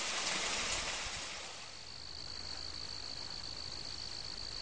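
A broad hiss fades out over the first second and a half, and a steady, high-pitched insect trill of crickets comes in and holds.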